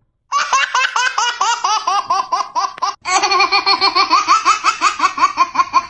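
Rapid, high-pitched laughter: a quick, even run of 'ha-ha-ha' at about five or six laughs a second. It breaks off for a moment about three seconds in and then runs on.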